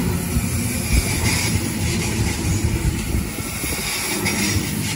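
Sydney double-deck V set electric train running past close by: a steady rumble of wheels on the rails, with brief louder hiss about a second in and again near the end.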